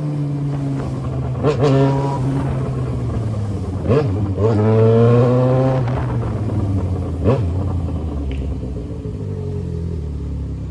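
Yamaha XJ6's inline-four motorcycle engine through a 3-inch aftermarket exhaust, pulling up in pitch twice as it accelerates, about a second and a half in and again around four seconds in, then settling to a steady lower note. Short sharp cracks come at the start of each pull and once more about seven seconds in.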